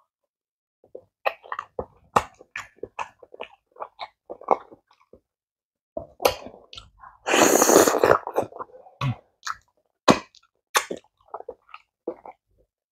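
Close-miked mouth sounds of eating amala and egusi soup by hand: wet chewing and lip smacks in a quick run of short clicks, with one louder, noisier sound lasting about a second, about seven seconds in.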